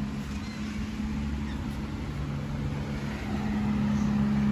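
A steady low mechanical hum with a held low tone, growing a little louder in the last second or so.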